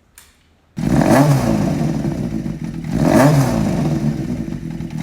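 Honda CBX550F's air-cooled inline-four engine running and being revved, the throttle blipped about every two seconds so the pitch rises and falls each time. The engine sound sets in suddenly about a second in.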